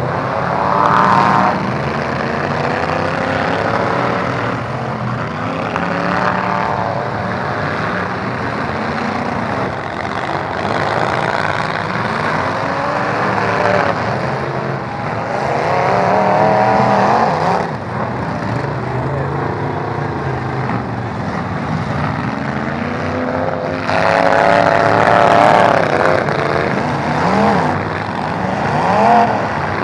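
Several demolition-derby truck engines revving hard at once, their pitch repeatedly rising and falling as they accelerate and back off.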